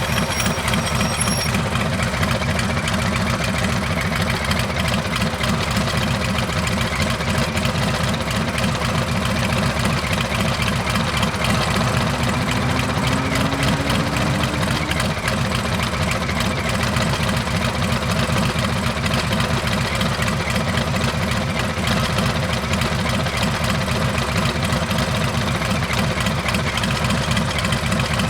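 Harley-Davidson Heritage Classic's Milwaukee-Eight V-twin running steadily through a Rinehart exhaust, with an even, pulsing beat and no revving.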